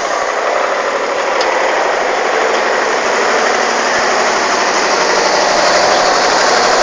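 Truck engine running steadily, growing gradually louder.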